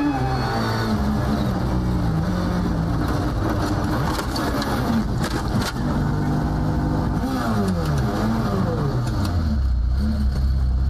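Rally car engine revving hard, its pitch climbing and dropping again and again through gear changes. Several sharp cracks come between about four and six seconds in, and the engine settles into a steady low drone near the end.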